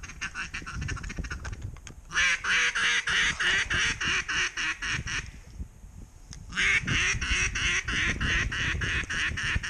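Duck quacking in two long, rapid runs of calls, each lasting about three seconds: one starts about two seconds in and the other about six and a half seconds in.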